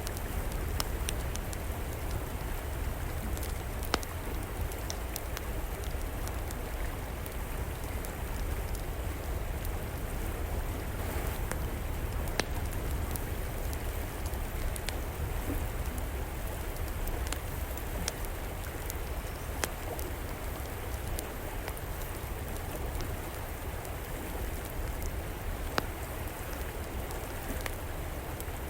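Steady rush of a flowing river, with scattered sharp pops and crackles from a wood fire, a few louder snaps standing out.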